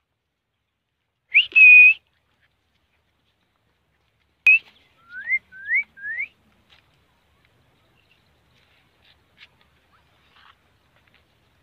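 Clear, pure whistles. One whistle rises and then holds about a second and a half in. A click and a short note follow around four and a half seconds, then three quick rising 'wheet' whistles in a row.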